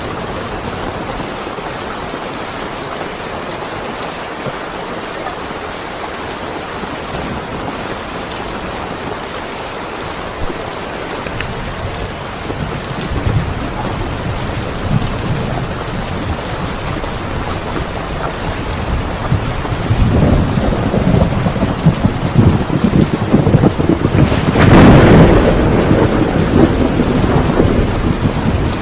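Heavy rain falling steadily, with thunder rumbling in from about halfway through and building to its loudest near the end.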